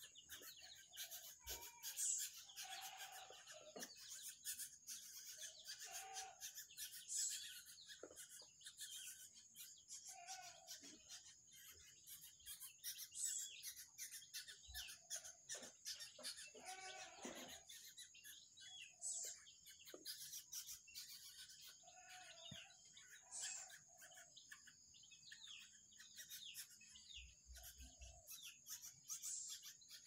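Young birds and chicks calling softly in short chirps and clucks scattered throughout, with a few higher whistled calls and light clicking of pecking at grain.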